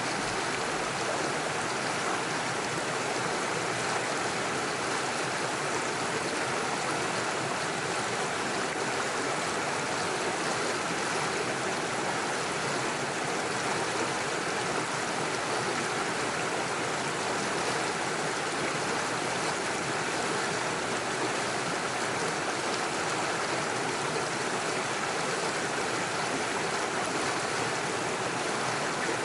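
Small mountain stream running over rocks and little waterfalls: a steady, even rush of flowing water.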